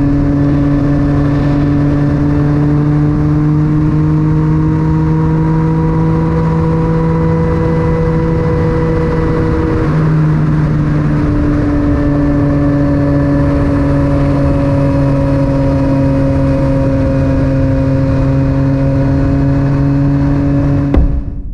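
Yamaha MT-09 three-cylinder engine through an Akrapovic titanium exhaust, heard onboard while riding at a fairly steady speed. The engine note holds with only slow small changes in pitch, with a brief dip about halfway through, and it cuts off abruptly at the very end.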